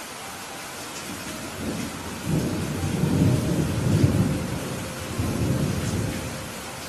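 Thunder rumbling over steady heavy rain: a deep roll builds about a second and a half in, is loudest in the middle, swells once more and fades out near the end, while the rain hiss carries on underneath.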